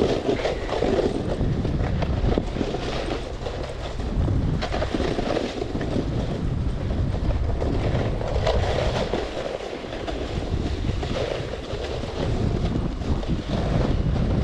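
Snowboard sliding and scraping over snow while towed along, with wind buffeting the microphone: a continuous rushing noise that swells and eases repeatedly.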